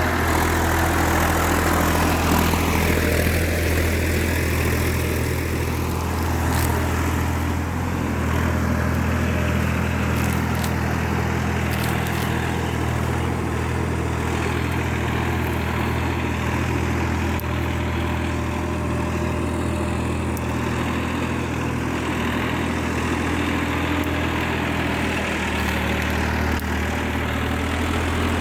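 Massey Ferguson 7250 DI tractor's diesel engine running steadily at low, even revs, with a slight change in engine note about eight seconds in and again near the end.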